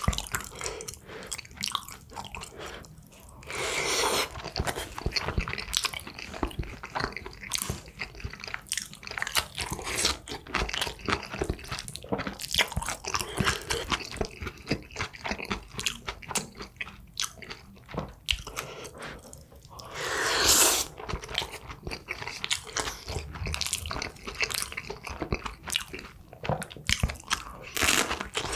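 Close-miked chewing and crunching of food, dense wet clicks and crackles of a mouthful being eaten. Twice, about four seconds in and again about twenty seconds in, a longer noisy sound of about a second rises above the chewing.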